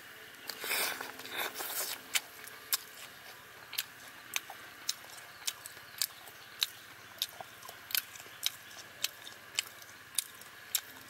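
A person chewing crunchy food: a burst of crunching at the start, then steady crisp chewing clicks a little under twice a second.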